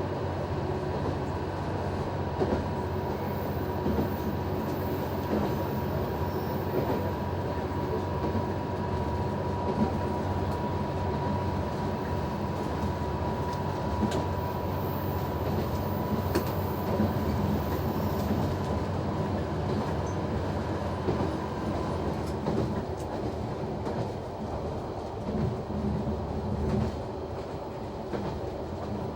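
Noto Railway NT100 diesel railcar running along the line: a steady rumble of engine and wheels with the clickety-clack of rail joints. A thin steady whine sounds over it and fades out about three-quarters of the way through.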